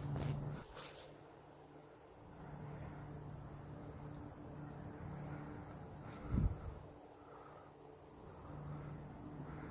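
Steady high-pitched insect trill, like crickets chirring, with a single dull low thump about six seconds in.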